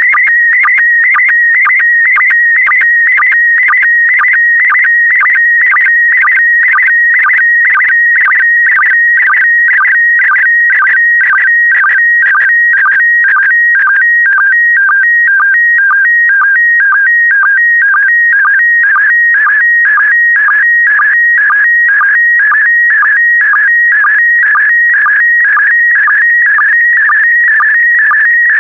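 Slow-scan TV image signal in PD120 mode: a loud, continuous high electronic warble that jitters rapidly in pitch, broken by short sync pulses about twice a second, each pulse marking the start of a new pair of scan lines of the picture being sent.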